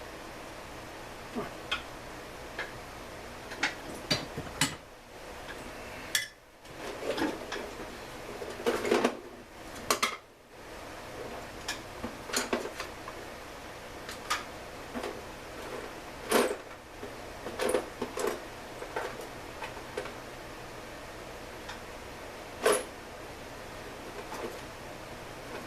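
Irregular clinks and clatters of small metal parts and hand tools being handled during chainsaw repair work, over a steady background hiss.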